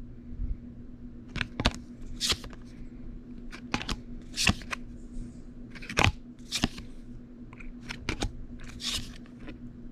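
Playing cards being handled and flipped one by one: an irregular run of light clicks and short scrapes of card stock, about a dozen in all.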